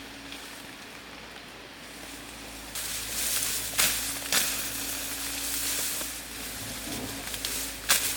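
Food frying in hot oil: a loud sizzling hiss starts suddenly about a third of the way in, with scattered sharp pops and crackles.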